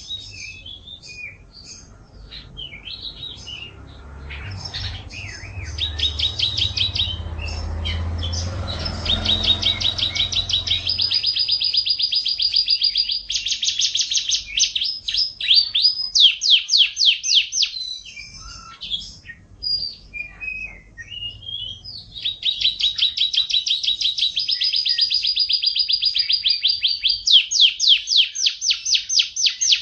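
Yorkshire canary singing vigorously in a long unbroken song of rapid trills and rolls, fast runs of repeated notes alternating with held buzzy rolls. A low rumble sits under the song for about the first ten seconds.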